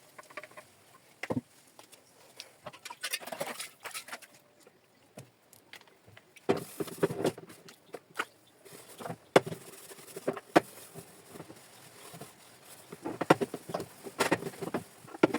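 Irregular knocks, clicks and clatter of kitchen items being handled and set down during cleaning, with short stretches of rubbing noise and one sharper click about nine seconds in.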